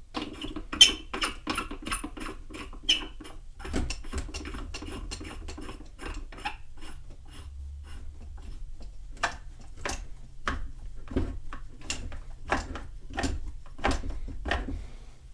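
Sharp clicks and light knocks of hand work on a pressure washer's plastic and metal parts during reassembly, a quick run of about four or five clicks a second over the first three seconds, then scattered louder knocks from about nine seconds on, over a low hum.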